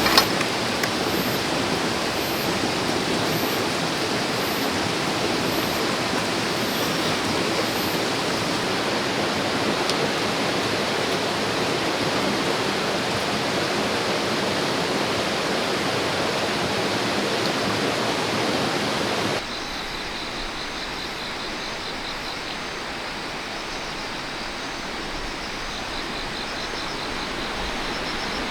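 Stream water rushing in a steady, even wash. About two-thirds of the way through it cuts abruptly to a quieter, thinner water sound with faint rapid high chirping.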